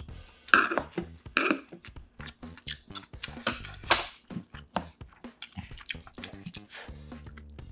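Close-miked chewing of food, with wet mouth noises and irregular short sharp clicks and smacks, the loudest about half a second in and again around four seconds.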